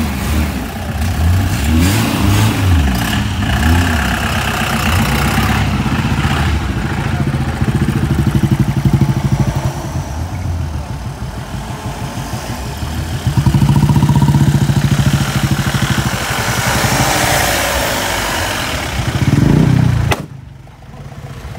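Modified car engines revving and running loudly, with the pitch swinging up and down as the throttle is blipped. Near the end comes one rising rev that cuts off suddenly.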